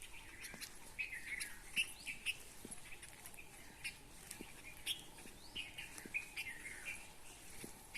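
Several birds chirping, with many short calls repeating and overlapping.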